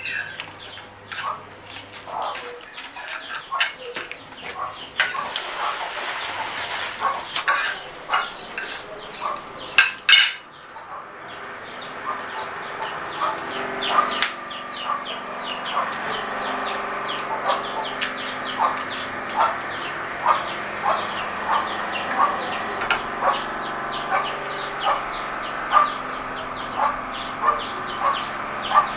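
Close-miked chewing and mouth sounds of someone eating fried chicken by hand: a run of short clicks and smacks, coming regularly about twice a second in the second half.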